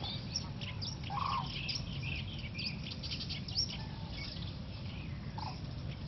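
Wild birds chirping and calling: many short, high chirps throughout, with a lower call about a second in.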